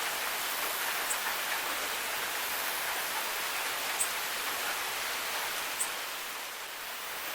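Steady rain falling, an even hiss with a few sharper drip ticks about one, four and six seconds in.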